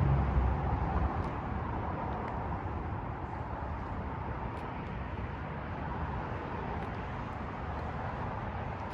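A vehicle engine running steadily, with a heavier low rumble in the first second.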